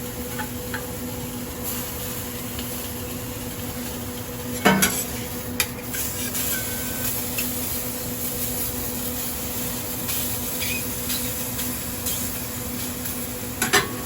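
Chicken and buttered buns sizzling on a grill over a steady hum from a kitchen exhaust fan, with a couple of sharp metal clanks about five seconds in and again near the end.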